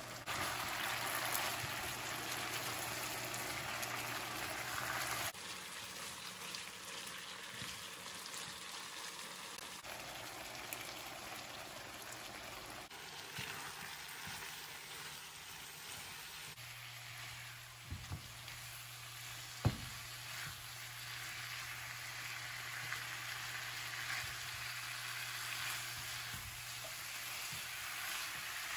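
Chicken pieces sizzling in a nonstick wok as a silicone spatula stirs the spice masala through them; the sizzle is louder for the first few seconds. A sharp knock comes a little past the middle.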